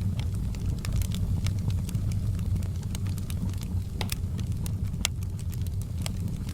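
Wood fire crackling: irregular sharp pops and snaps over a steady low rumble of the burning fire, with a couple of louder pops about four and five seconds in.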